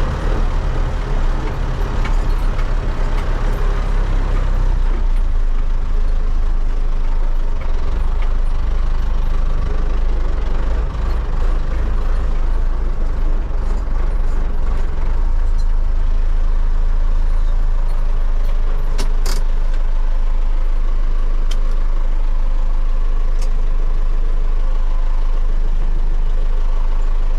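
MTZ-80 tractor's D-243 four-cylinder diesel engine running steadily and loud. Its note shifts a few times in the first several seconds, then holds even, with a sharp click about two-thirds of the way through.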